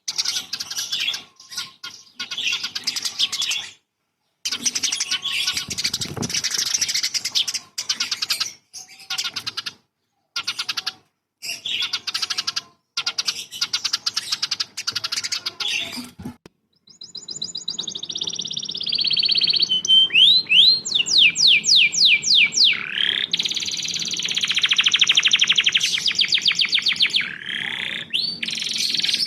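Songbird song edited in segments. First come dense, high, chattering bursts broken by abrupt silences. About 17 seconds in, a different recording starts over a low hum, with sweeping whistles, fast runs of rising notes and rapid trills.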